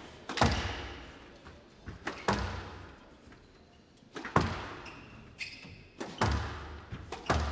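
Squash rally: the ball struck hard with the racket and driven into the wall about every two seconds, each hit a sharp crack followed by a long ringing decay in the hall, with a few short high squeaks between shots.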